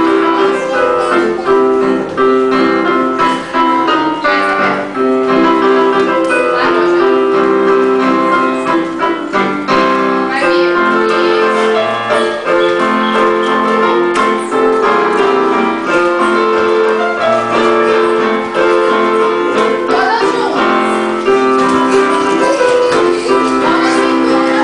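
Piano music for a ballet class, playing continuously at a steady level.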